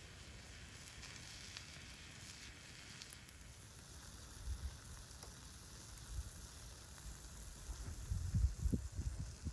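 Food sizzling over a campfire: a steady frying hiss with a few faint crackles. Low rumbling thumps come in near the end.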